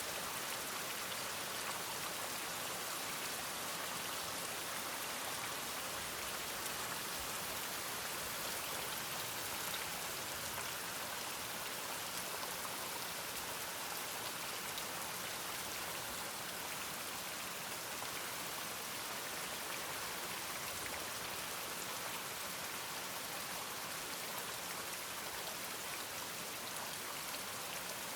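Steady rain, an even rushing patter with no thunder or barking breaking through.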